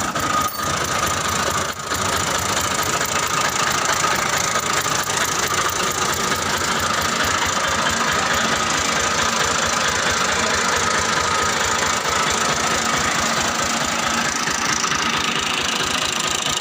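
Fiat 480 tractor's diesel engine running steadily.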